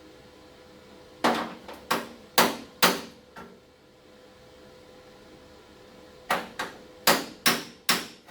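Hammer blows on sheet-metal body panels, two quick runs of about five sharp strikes each with a short metallic ring, working the panel edges flush before welding.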